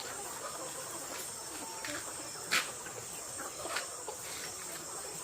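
Steady high-pitched insect chirring with faint sounds from caged poultry. Three or four short sharp clicks stand out, the loudest about two and a half seconds in.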